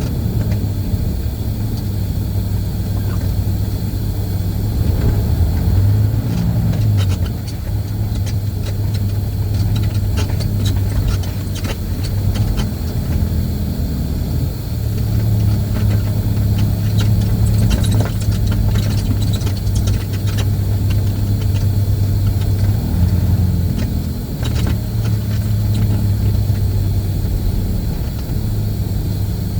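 Semi-truck diesel engine running, heard from inside the cab as a steady low drone; its note shifts briefly a few times.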